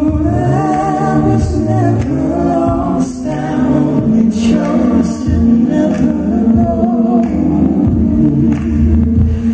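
Live a cappella-style singing: a male voice sings over layered, sustained vocal harmonies that sound like a small gospel choir.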